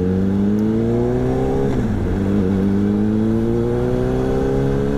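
Honda CBR600RR's inline-four engine pulling under throttle, its pitch rising slowly, dropping briefly at a gear change about two seconds in, then climbing steadily again.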